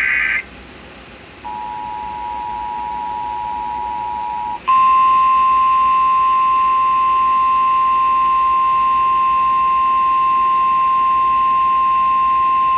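Emergency Alert System tones on a radio broadcast. A short data burst ends at the very start, then the two-note EAS attention signal holds steady for about three seconds. After a brief gap, a louder single steady alert tone sounds for about eight seconds and cuts off at the end, just before a severe thunderstorm warning is read.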